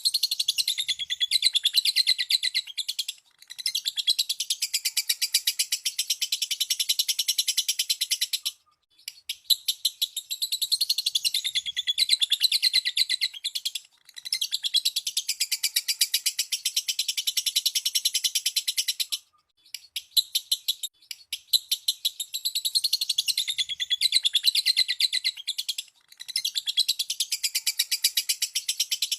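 Lovebird chattering in long, very rapid, high-pitched trills, in bouts of several seconds with brief pauses between them.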